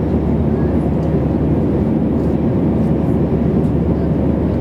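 Steady low drone of a jet airliner's engines and airflow, heard from inside the passenger cabin in flight.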